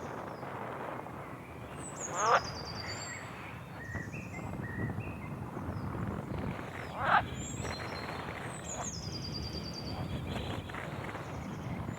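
Birds chirping and trilling over a steady low rumble, with a loud call that slides down in pitch twice, a little after two seconds and about seven seconds in.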